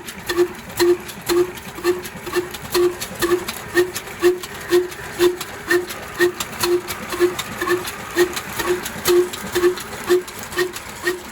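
Old slow-running 'black' diesel engine running at a steady beat of about two strokes a second, each beat a short thud with a sharp click.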